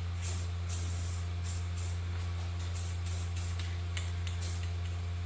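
Aerosol spray-paint can spraying in a series of short, hissing bursts, over a steady low hum.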